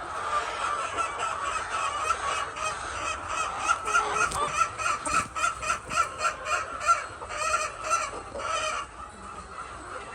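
Flock of laying hens calling together, many short overlapping clucks and squawks, busiest in the middle and thinning out near the end.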